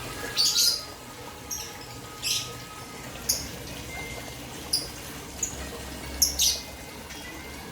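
Parrots giving short, shrill high-pitched calls, about eight in a few seconds at irregular intervals.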